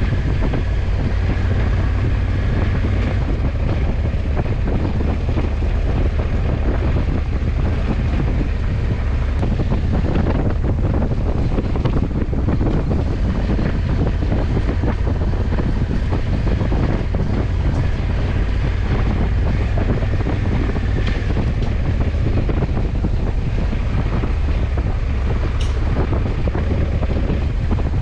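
Wind rushing over the camera microphone on a moving motorcycle, over the steady low drone of the Honda CRF1100 Africa Twin's parallel-twin engine and its tyres on the road.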